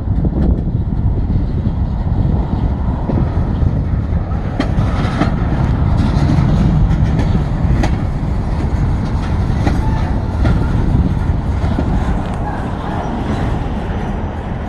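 Freight train rolling past with a steady low rumble. Wheels click over the rail joints from about four and a half seconds in.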